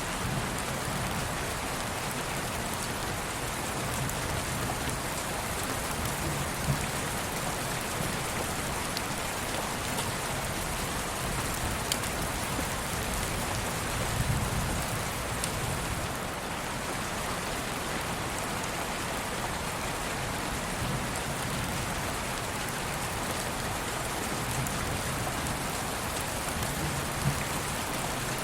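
Steady rain falling, an even hiss with scattered sharp drop ticks and soft low rumbles now and then.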